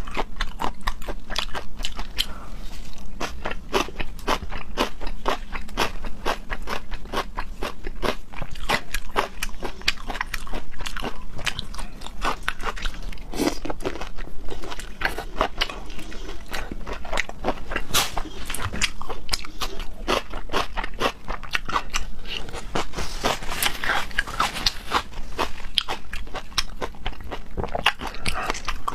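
Close-miked mukbang eating: a person biting and chewing crunchy food, with dense, irregular crackling crunches throughout.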